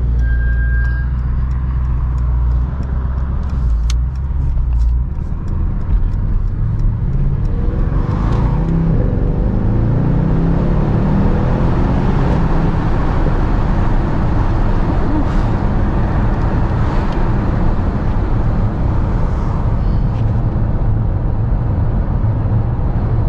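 Mercedes-AMG S63's twin-turbo V8 heard from inside the cabin: a low steady rumble at first, then accelerating from about six seconds in, its pitch rising in steps through several upshifts, before settling into a steady cruise with road noise.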